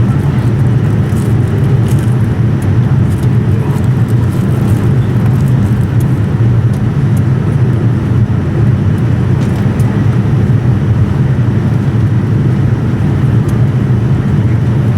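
Steady low rumble of airliner cabin noise aboard a Boeing 787-9, unchanging throughout, with a few faint ticks in the first few seconds.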